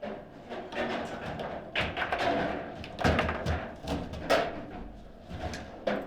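Table football in play: the ball is struck by the rod figures and knocks against the table, with rods clacking, in an irregular run of sharp knocks. The loudest come about three seconds in and again a little after four seconds.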